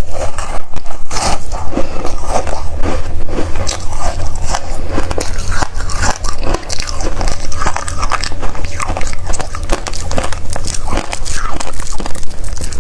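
Freezer frost being bitten and chewed close to the microphone: continuous, irregular crunching, over a steady low hum.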